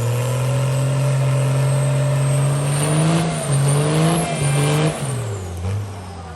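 Truck engine held at high revs, with the revs rising and dipping several times about three to five seconds in, then winding down and fading near the end.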